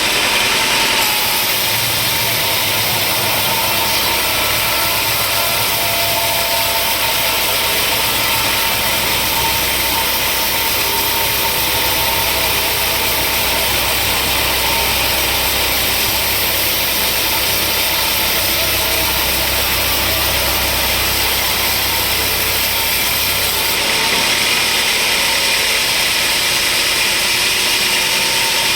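Sawmill machinery running steadily: a motor's hum under a loud, even hiss that grows louder about a second in and eases off near the end.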